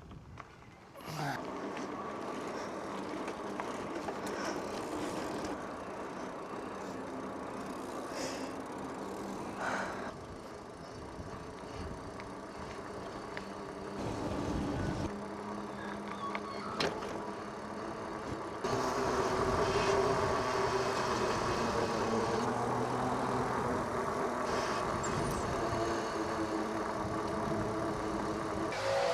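Steady road noise from a moving bicycle, with wind and tyres on the road and motor traffic. It gets louder about two-thirds of the way in.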